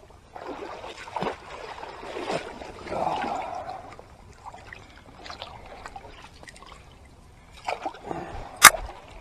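Shallow river water splashing and trickling in irregular swells, with a sharp click near the end.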